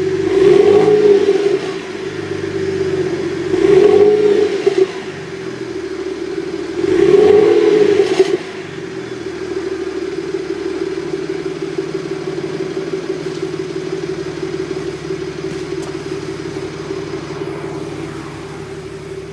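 BMW Z4 E89 35i's twin-turbo inline-six through a Milltek aftermarket exhaust, still cold, blipped three times about three seconds apart, each rev rising and dropping back within about a second. It then settles into a steady idle for the rest of the time.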